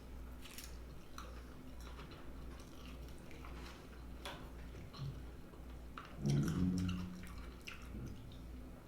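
Close-miked chewing of a mouthful of dressed salad, with soft crunches and wet clicks, and a short hummed "mm" about six seconds in.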